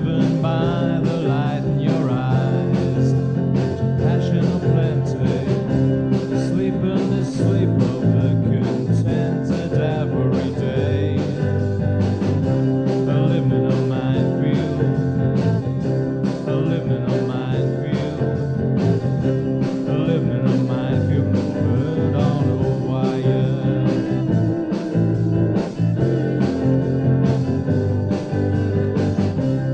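A band playing a rock song with a steady drum beat.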